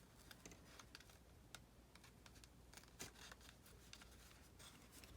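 Near silence with a scatter of faint, short clicks and light rustling as a small metal eyelet is fitted through scrapbook paper.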